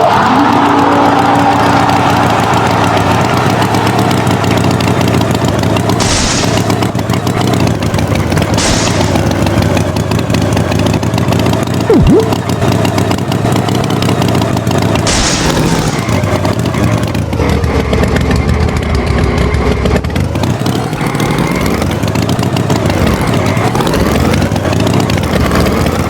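Tractor engine running, its pitch rising and falling as it revs in the second half, with short hissing bursts three times.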